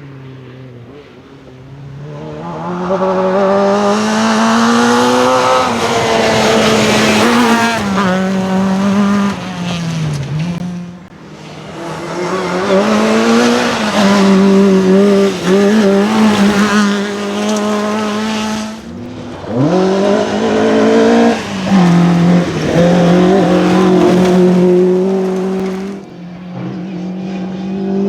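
Rally car engine at high revs on a gravel forest stage, its pitch climbing through the gears and dropping sharply at a couple of lifts or shifts. It grows loud a couple of seconds in, stays loud for most of the stretch and fades near the end.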